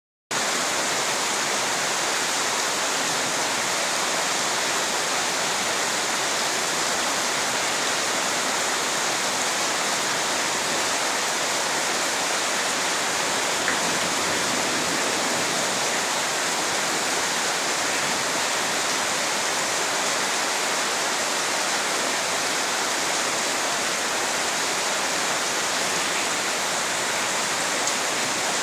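Steady heavy rain falling, an even, unbroken hiss of water.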